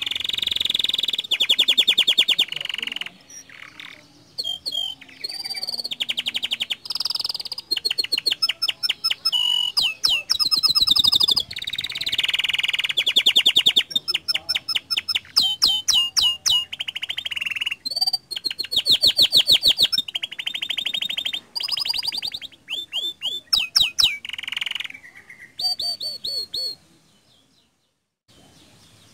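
Domestic canary singing a long, varied song of fast trills and rolls in phrases separated by short pauses; the song stops about two seconds before the end.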